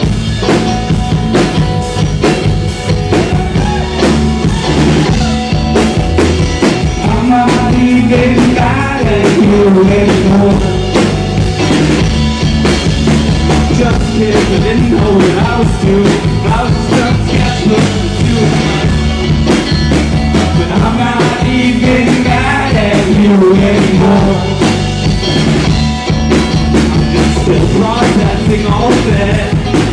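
Live rock band playing an instrumental passage with drum kit, bass and guitar, loud and continuous.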